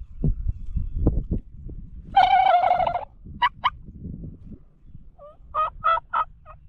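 Wild turkey gobbler gobbling once, loud, for about a second starting about two seconds in, followed by a couple of short sharp notes and then a run of short yelping turkey notes near the end. A few low thuds come in the first second or so.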